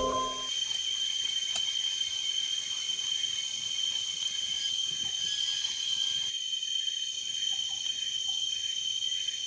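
A forest insect chorus: a steady, high-pitched shrilling of crickets or similar night insects, with further layers of insect song above it.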